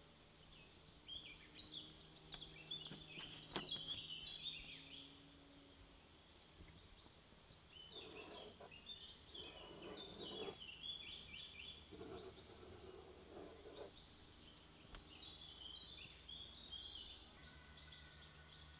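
Faint birdsong: small birds chirping and trilling in several short spells, with pauses between.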